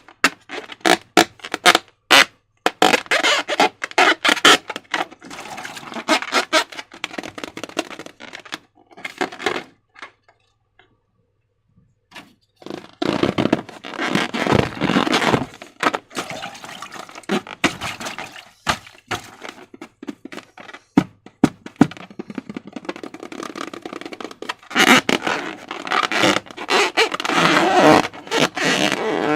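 Slime and transparent balloons being handled at close range: a dense run of sticky clicks, crackles and scrapes. It stops for about two seconds around the middle, then resumes.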